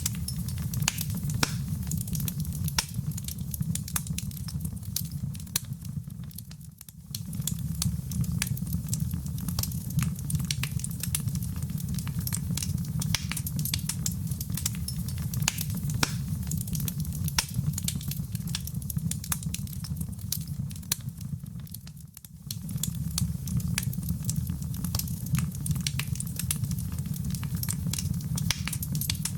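Wood fire burning in a fireplace, with a steady low rumble and dense, irregular crackles and pops. The sound dips briefly twice, about 7 and 22 seconds in.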